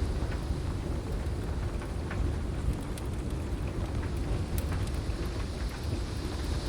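Heavy rain with a continuous low rumble of thunder, and scattered sharp pops of a crackling wood fire.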